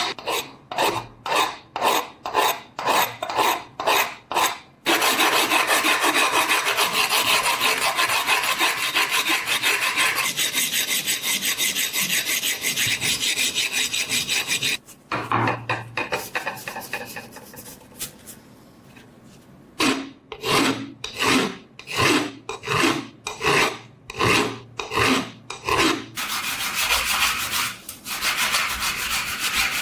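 Abrasive hand-work on the rusted steel of an old knife, probably sanding or filing. It comes as back-and-forth strokes about two a second, broken by long stretches of continuous scraping.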